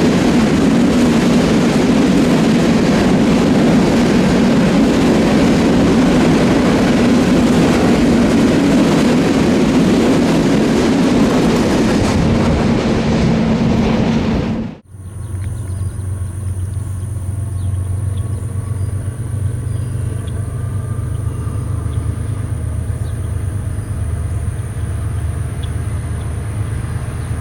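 Freight train rolling past close by, steel wheels on rail in a loud, steady rush. It cuts off suddenly about halfway, followed by a much quieter steady low drone with a faint high whine.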